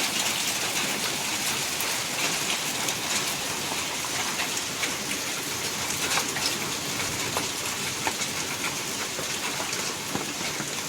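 Heavy storm rain pouring down steadily, with scattered sharp ticks of individual strikes through the hiss.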